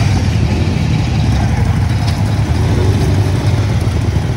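Riding lawn mower engine running steadily with a low, even drone.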